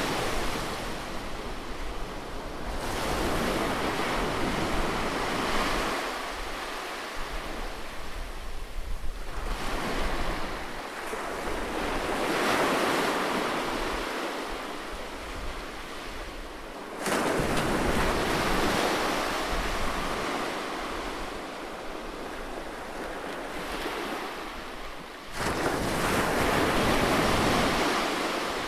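Close-up seaside ambience: sea waves washing onto a shore, the surf swelling and ebbing every several seconds. Two of the swells start abruptly.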